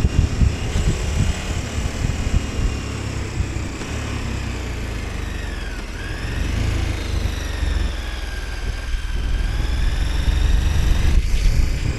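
KTM 1290 Super Adventure S's V-twin engine running under way with wind rushing past; its pitch falls until about halfway through, then climbs again and is loudest near the end.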